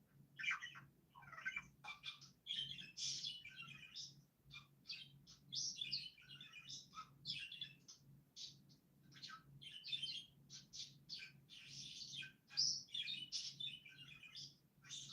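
Small birds chirping and chattering almost without pause in quick, overlapping calls, over a faint steady low hum.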